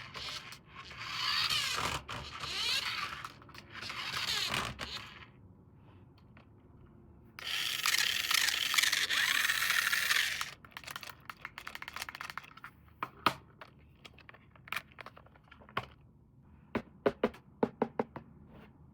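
Toy packaging being opened and handled by hand: several bursts of crinkling and tearing, one longer one near the middle, then a string of sharp clicks and taps.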